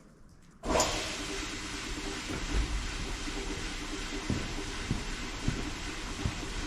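Electric motor of an old South Bend lathe switched on about a second in and running steadily with a hum, spinning its pulley, with a few irregular knocks. The belt is too slack to drive the lathe.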